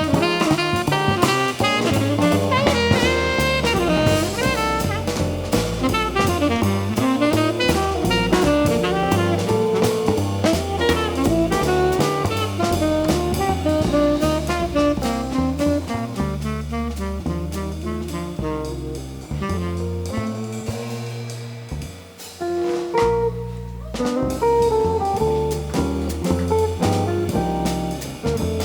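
Jazz band playing live, melody lines over bass and drums; the music thins out briefly about three-quarters of the way through, then picks up again.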